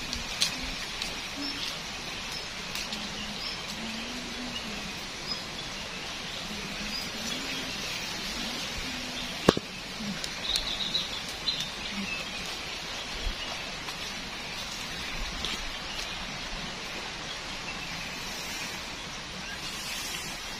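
Forest ambience: birds chirping over a steady high hiss, with a few small clicks and one sharp crack about nine and a half seconds in.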